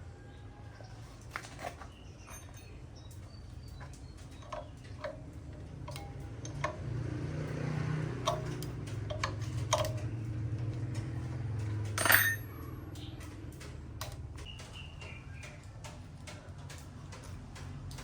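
Scattered metallic clicks and clinks of tools and parts being handled over a low hum, with one sharper clink about twelve seconds in.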